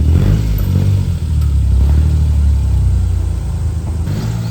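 Nissan Silvia S15's engine running at low revs while the car is manoeuvred into a parking spot, its speed rising and falling a little near the start and about a second in.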